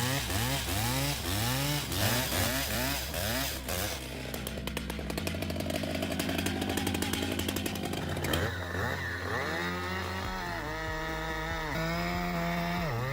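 Stihl MS 881 chainsaw, a large two-stroke saw, revving up and down in quick bursts. Then it runs for about four seconds under steady load while cutting timber, and goes back to revving near the end.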